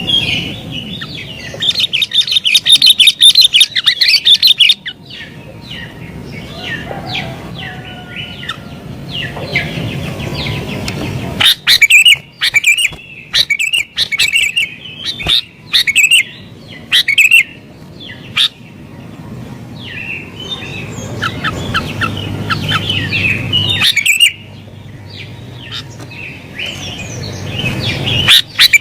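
Sooty-headed bulbul singing vigorously in an agitated, challenging mood, with many short chirping notes. A fast run of rapid notes comes near the start, and loud bursts of calls come in the middle and again near the end.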